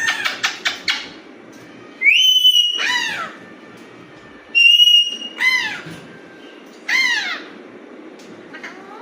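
Alexandrine parakeet calling: a quick chatter of short notes, then twice a held whistle followed by loud, harsh calls that rise and fall in pitch, with one more such call near the end.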